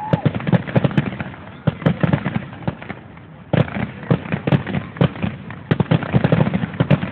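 Fireworks display: a rapid, dense run of shell bursts and bangs. About three seconds in, the bangs thin out briefly, then start up again suddenly just as densely.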